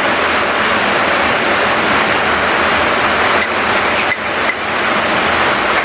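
Steady hiss of heavy rain, with a few faint clicks about midway.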